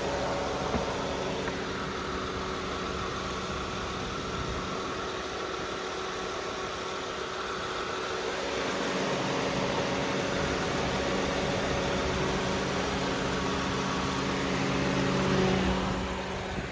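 First-generation Honda Pilot's 3.5-litre V6 idling with a steady hum, running just after an oil change. It gets a little louder about halfway through and fades right at the end.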